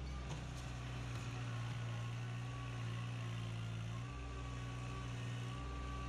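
Kubota L3200 tractor's diesel engine running steadily, its low note shifting slightly about four seconds in.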